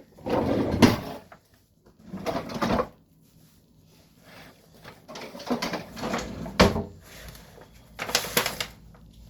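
A utensil scraping and knocking against a bowl and dish in several short bursts while cheesecake filling is scooped out, with one sharp knock about two-thirds of the way through.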